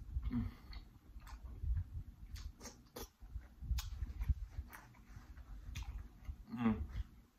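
Close-miked chewing of soft seafood-boil food: wet mouth noises with many small sticky clicks and smacks. A brief hummed "mm" comes near the end.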